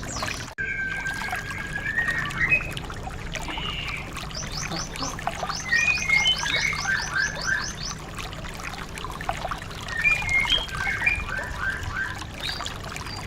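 White-eye (pleci) birdsong: fast runs of short, high chirping notes alternating with lower whistled phrases, repeated several times, over a steady background of trickling water. The sound cuts out briefly about half a second in.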